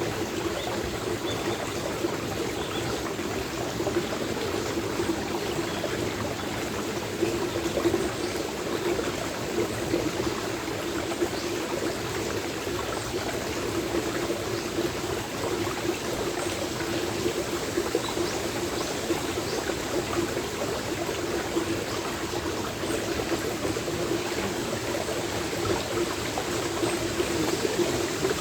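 Stream water running steadily, with the rustle of trees in strong wind and an occasional brief sharp tap of acorns dropping.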